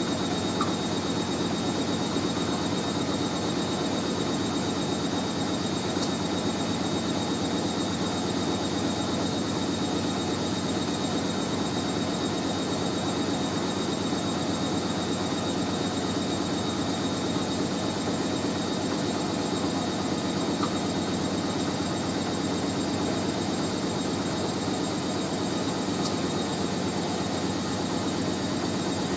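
Hoover A3060 Electronic 1100 washing machine spinning at speed: a steady drone and rush from the drum and motor, with a faint high whine over it.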